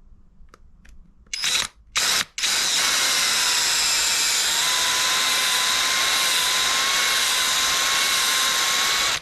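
Power drill boring a small air-vent hole in the end of a rubber motorcycle footrest peg: two short blips of the trigger, then a steady whine for about seven seconds that stops abruptly.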